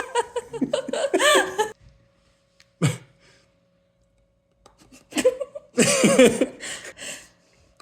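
Laughter for the first couple of seconds, a pause with a single short voiced noise about three seconds in, then another run of laughter and vocal noises from about five seconds on.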